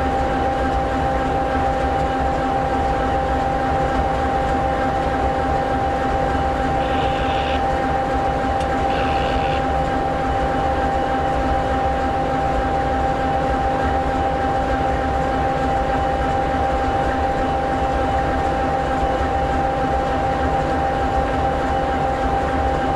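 EMD SD60E locomotive's 16-cylinder two-stroke 16-710G3B diesel idling steadily, a constant low rumble with a steady whine over it. Two brief high-pitched sounds break in about seven and nine seconds in.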